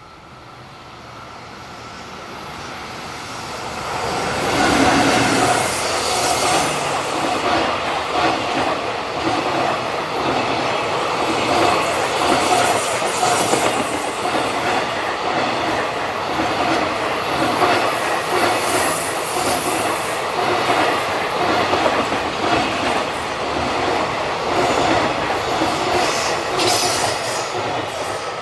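Freight train approaching and passing close by, its long line of wagons clattering over the rail joints in a rapid, continuous rhythm, with wheels squealing on the curve. The sound swells over the first four seconds, then stays loud.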